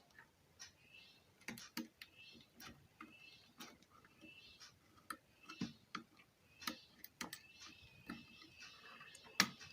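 Irregular small clicks and taps of hand tools working on an amplifier circuit board while a transistor is being removed, with one sharper snap near the end.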